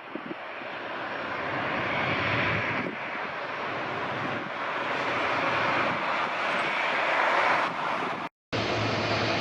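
Jet airliner's engines passing close, a rushing noise that grows louder over the first couple of seconds and stays loud. The sound cuts out for a split second near the end, then carries on with a low hum.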